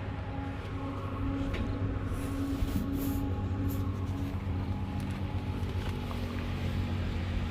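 Mahindra Yuvo Tech 575 DI tractor's diesel engine idling with a steady low hum.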